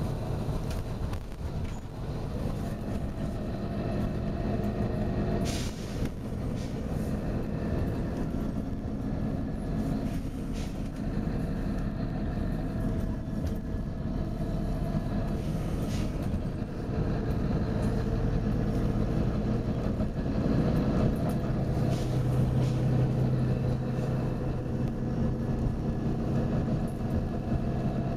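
Volvo B9TL double-decker bus's diesel engine running, growing louder and stronger after about twenty seconds. Several short air hisses from the bus's air system cut in over it.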